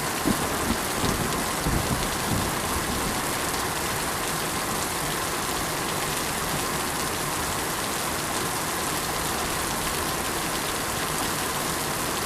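Steady rain falling, an even hiss of drops. In the first couple of seconds a few low rumbles of thunder swell over it, then the rain goes on alone.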